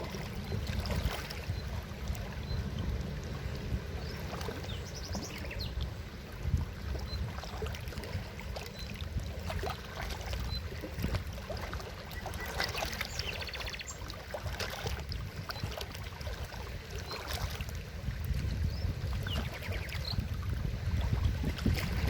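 Forest river flowing over rocks: a steady low rumble of rushing water with irregular gurgles and splashes on top.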